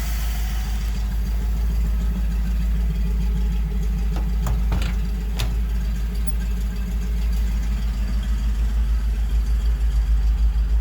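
1958 Dodge Power Wagon's V8 engine idling steadily with an even low pulse, a few light clicks about halfway through; the owner suspects it is running a little rich.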